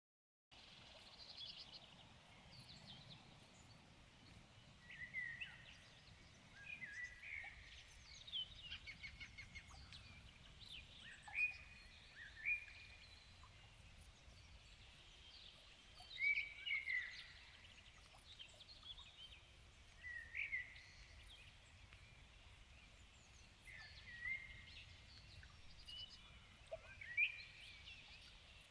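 Songbirds singing: short whistled and trilled phrases from several birds come every few seconds over a faint steady background hiss. The sound begins abruptly about half a second in.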